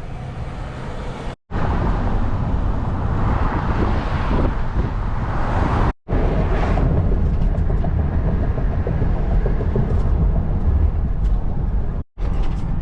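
A car driving: a steady low engine and road rumble, broken into separate clips by abrupt cuts about a second and a half, six and twelve seconds in.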